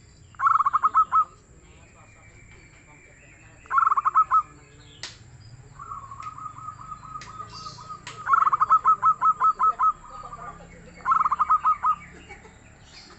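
Zebra dove (perkutut) cooing in bursts of rapid staccato notes: a short burst near the start, another about four seconds in, a softer trill leading into a longer burst around the middle, and a short burst near the end.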